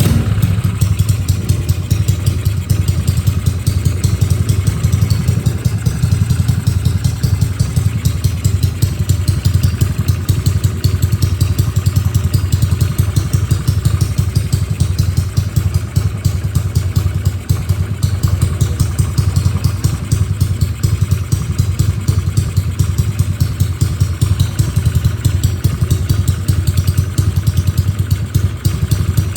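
Race-built Yamaha Mio scooter's single-cylinder four-stroke engine idling steadily, with a loud, fast-pulsing low rumble and no revving.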